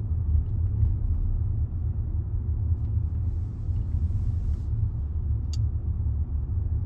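Steady low road and engine rumble of a Range Rover heard from inside the cabin while driving. A faint hiss rises for about a second midway, and there is a single short click about five and a half seconds in.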